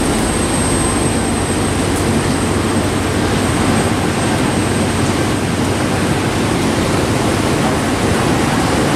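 Steady rushing noise of rain and breaking ocean surf.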